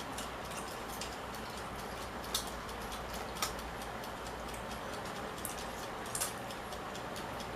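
Light clicks and taps from eating a meal of mussels and shrimp pasta, three sharper ones spaced a second or more apart, over a steady hiss.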